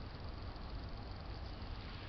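Steady background noise: a low rumble under a faint even hiss, with no distinct event.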